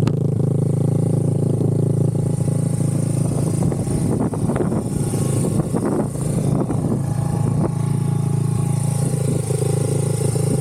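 Honda XR100 dirt bike's single-cylinder four-stroke engine running at a steady speed, with irregular clattering and scraping from about three to seven seconds in.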